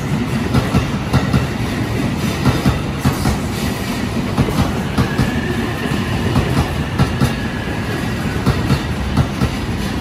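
JR East E531 series AC/DC electric multiple unit rolling past, its wheels clacking in a steady rhythm over the rail joints.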